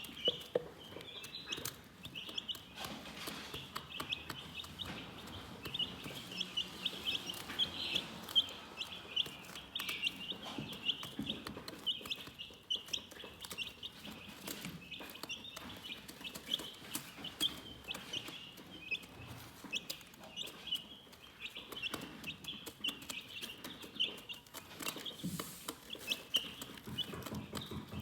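Chickens chirping: a steady run of short, high-pitched peeps, many overlapping, with scattered sharp clicks among them.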